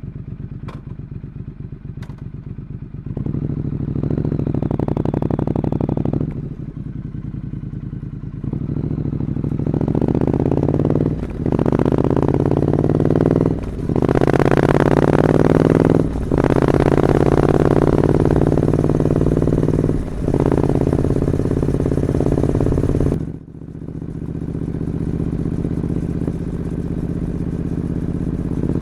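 Triumph Scrambler 900's parallel-twin engine through its original 2-into-1 exhaust. It runs at a low, pulsing speed for about three seconds, then revs in a series of pulls with brief dips between them. It drops away sharply about 23 seconds in and builds up again gradually.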